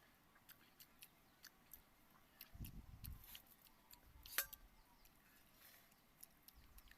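Faint eating sounds: scattered small clicks and smacks of chewing watery rice, with one sharper click about four seconds in.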